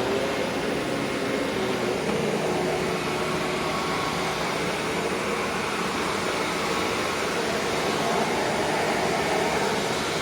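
Simplicity 7 Series bagged upright vacuum cleaner running steadily.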